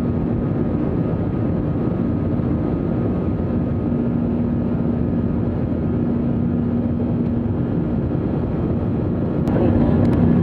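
Steady cabin noise inside an Airbus A321-200 airliner: engine and airflow noise with a steady low hum. A click sounds near the end as the level rises slightly.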